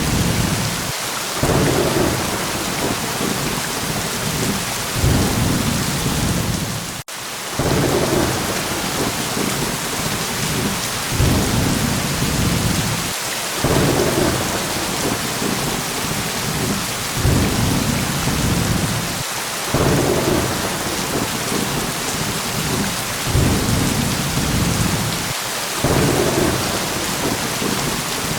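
Steady heavy rain with low thunder rumbles that swell and fade every few seconds. The sound drops out for a split second about a quarter of the way through.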